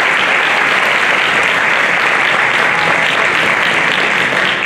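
Concert audience applauding steadily as performers walk back onto the stage.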